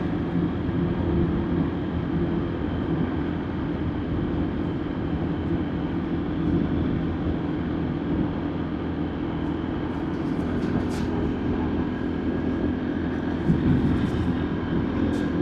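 Motorbike engine running steadily at cruising speed, with wind and road noise, heard from the rider's seat. A few light clicks come about ten seconds in and again near the end.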